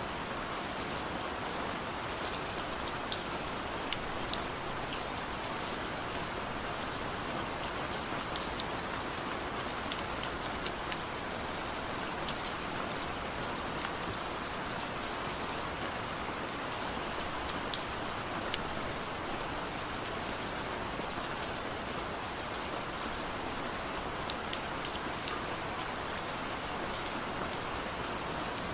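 Steady rain falling, an even hiss with many scattered drop ticks and taps.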